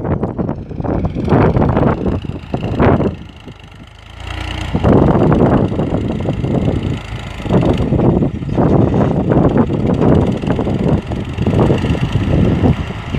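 Tractor engine running, a loud, uneven rumble that drops away briefly about three to four seconds in and then comes back.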